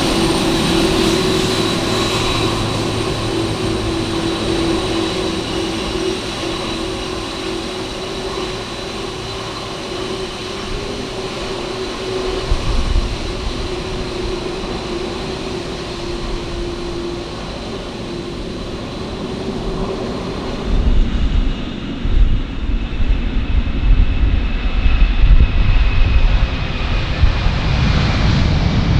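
Jet aircraft engines: a steady whine with a few held tones that slowly fades. About 21 s in, a louder, uneven low rumble takes over.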